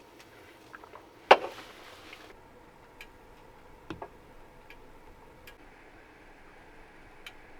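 A sharp knock about a second in, followed by a brief rustle, then a softer knock and a few faint scattered ticks.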